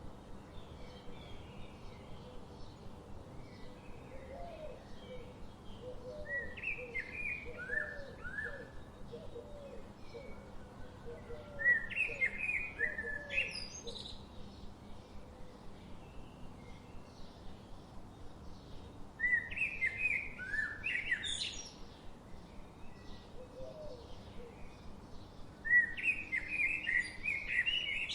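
Forest birdsong: one bird sings a loud, short, quick phrase three times, about every seven seconds, over faint chirping from other birds. In the first third a lower call repeats about twice a second for a few seconds.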